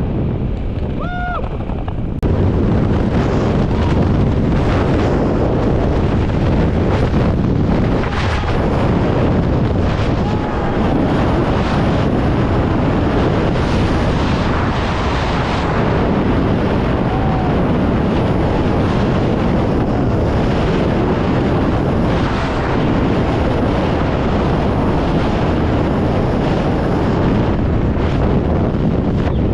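Rushing air of a skydiving freefall buffeting the microphone as a loud, steady roar of wind noise, stepping up louder about two seconds in.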